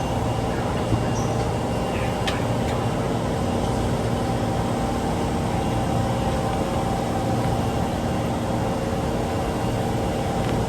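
Osaka Metro 22 series subway car running at steady speed, heard from inside: an even rumble with steady humming tones, from a car known for an unusual running noise. A brief click about two seconds in.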